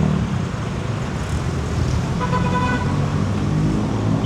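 Street traffic with vehicle engines running close by, and a short horn toot from a passing vehicle about two seconds in.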